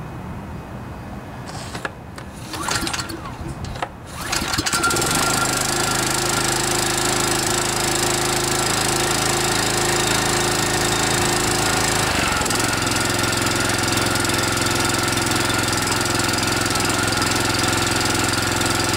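Kawasaki FC150V 6.75 hp single-cylinder OHV engine on a walk-behind trimmer being started. After a few short cranking strokes it catches about four seconds in and runs steadily, with a slight change in tone about halfway through. It is running again after its plugged carburetor main jet was cleaned.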